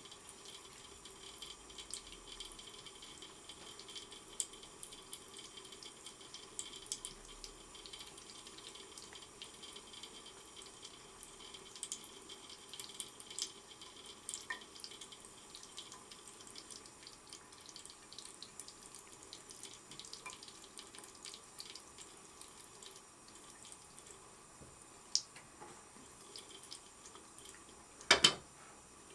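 A thin stream of tap water running steadily into a sink, with scattered small splashes and ticks. A sharp, louder knock comes twice in quick succession near the end.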